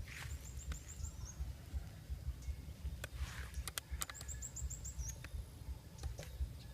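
A small bird singing a quick run of about six short, high, evenly spaced notes ending in an upward flick, twice, over a low rumble and scattered light clicks.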